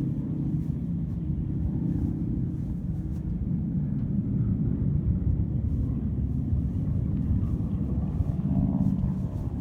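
Low, steady rumble of an aircraft engine droning, growing a little louder in the second half.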